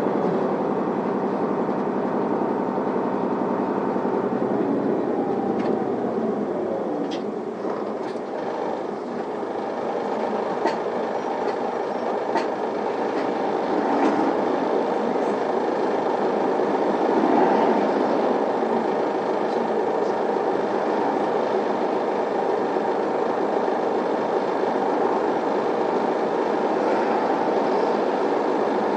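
Interior running sound of an Isuzu Erga city bus with a 6HK1 straight-six diesel: engine and drivetrain running under way, with a whine falling in pitch around five seconds in as it slows, a dip around eight seconds, then picking up again. A few sharp clicks and rattles sound in between.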